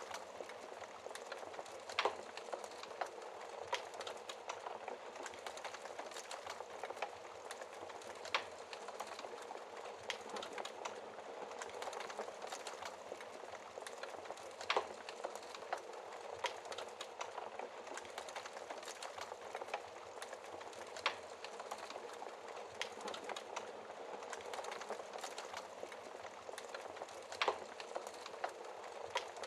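Wood fire crackling: a steady hiss and many small crackles, with a few sharper, louder pops every six seconds or so.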